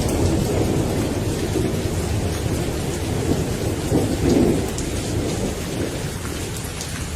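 Steady rain with rolling thunder rumbling low underneath, swelling briefly about four seconds in, and scattered drops ticking.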